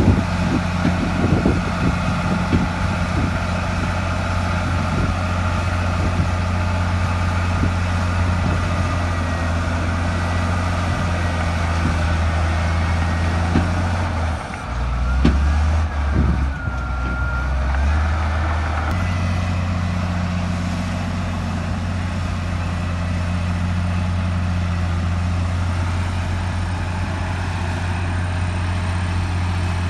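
Heavy diesel earthmoving machinery running steadily under load, with a low engine drone and metal clanks in the first few seconds. About halfway through the engine note drops and wavers for a few seconds, then settles back to its steady pitch.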